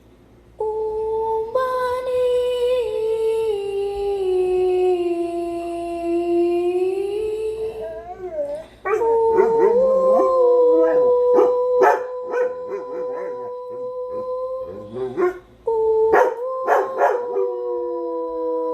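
Dogs howling in long drawn-out howls: the first slides slowly down in pitch and back up over about seven seconds. From about nine seconds on, held howls continue with short yips and barks breaking in over them.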